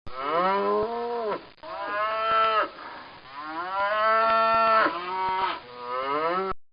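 Cow mooing: about five long calls one after another, the middle one the longest at nearly two seconds.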